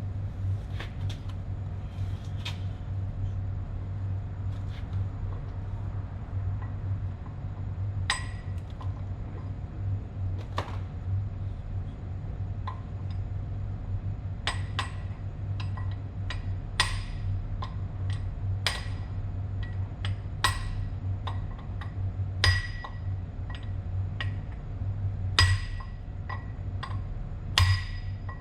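Irregular sharp metallic taps, each with a short bright ring, from a tool striking metal parts of the motor assembly, sparse at first and coming more often after about eight seconds, over a steady low hum.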